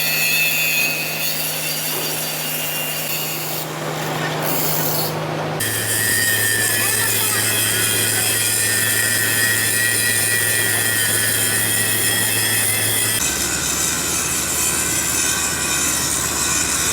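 Electric power tool working metal with an abrasive, rasping sound over a steady motor tone. The motor tone drops in pitch suddenly twice.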